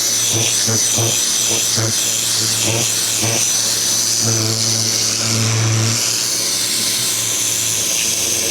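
Ryobi 2000 PSI electric pressure washer running, its water jet hissing steadily while the pump's low motor note pulses on and off, then holds steady for a couple of seconds midway.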